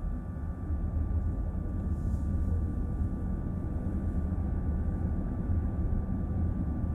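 Road noise heard inside a moving car's cabin: a steady low rumble of tyres and drivetrain, with a faint steady high whine on top.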